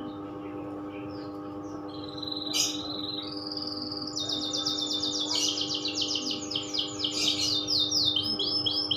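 Domestic canary singing: a short high note about two seconds in, then from about three seconds a long unbroken run of fast, rapidly repeated high trills, the continuous song of a canary kept for long singing.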